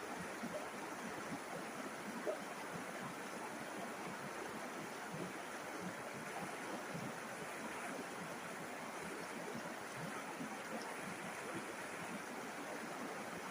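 River water flowing steadily over stones, a constant rushing with small splashes and gurgles, one slightly louder about two seconds in.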